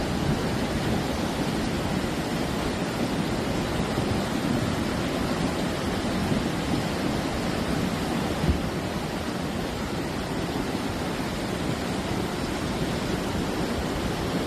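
A swollen mountain river in spate after a cloudburst, its floodwater rushing in a dense, unbroken wash of noise. There is one brief thump about eight seconds in.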